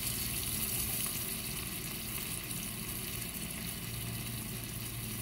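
Chopped onion and garlic sizzling steadily in butter and soy sauce in a small skillet over a gas flame.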